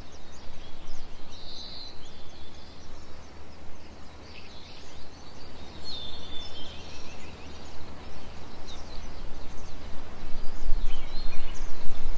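Birds chirping and whistling in short, scattered calls over a steady low background rumble, which swells louder near the end.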